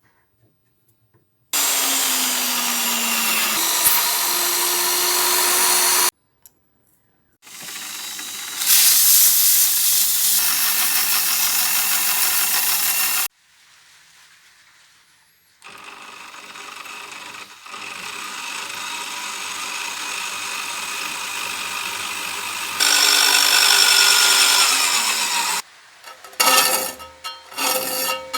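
Restored old table saw running and cutting wood, heard in several stretches that start and stop abruptly. Its pitch falls for a couple of seconds near the end, followed by short choppy bursts.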